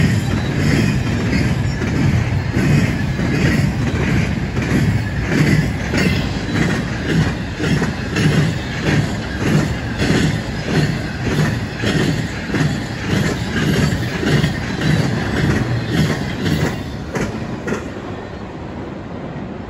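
Train rolling past, its wheels clacking over the rail joints in an even rhythm about twice a second over a steady rumble, easing slightly near the end.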